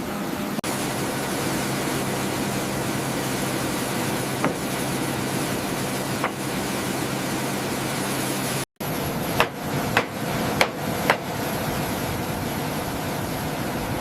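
Steady turbine hum with a thin high whine from a parked military transport aircraft's engines. About two-thirds through, the sound breaks off for an instant; after it the low hum is gone and four sharp knocks follow within about two seconds.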